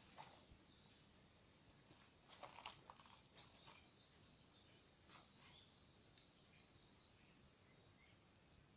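Wood fire burning quietly, almost at near silence: a few faint scattered crackles and pops of burning wood, clustered about two and a half seconds in and again about five seconds in, over faint high chirps.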